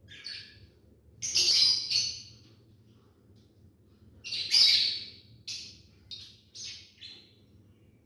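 Lovebirds giving shrill, harsh chirping calls in short bursts. The two loudest come about a second and a half in and about four and a half seconds in, followed by a quicker run of shorter calls.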